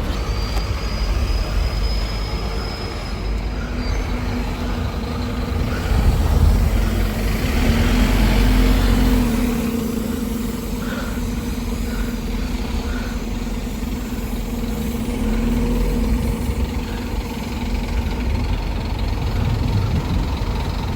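Scania N230UD Omnicity bus's diesel engine running steadily, growing louder for a few seconds about six seconds in, then settling back.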